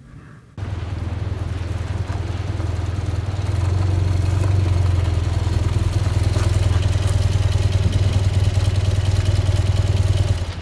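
Motorcycle engine running at a steady speed, heard from on the bike. It starts suddenly about half a second in and grows louder a few seconds later.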